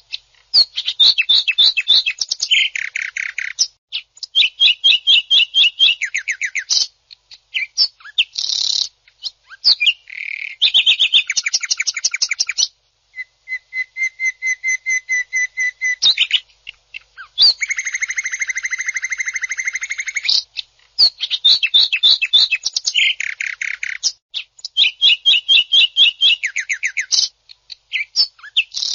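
Green leafbird (cucak ijo) singing loudly in harsh, fast phrases: rapid runs of sharp repeated notes, about eight to ten a second, alternating with rasping buzzy stretches. A steady whistled note comes about halfway through, and short pauses fall between phrases.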